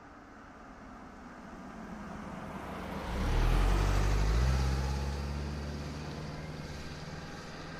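Bus engine: it builds up, is loudest from about three to four and a half seconds in with its pitch stepping up, then slowly fades away.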